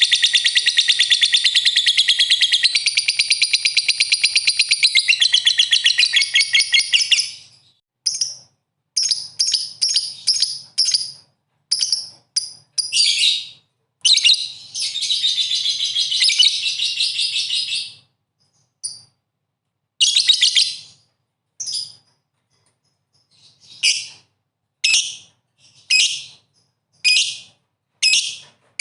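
Lovebird singing: a long, rapid, high-pitched chattering trill for about the first seven seconds and again about halfway through, with runs of short, sharp chirps and brief pauses between and after the bouts.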